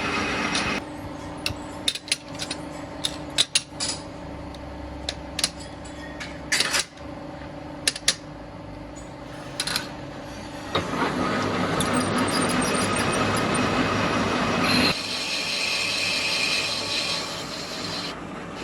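Metalworking workshop noise: a run of sharp metal knocks and clanks over a steady machine hum, then a dense steady working noise that starts suddenly about eleven seconds in.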